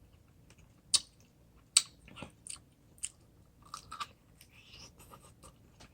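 A person chewing crisp food close to the microphone, with sharp crunches at irregular intervals of roughly a second.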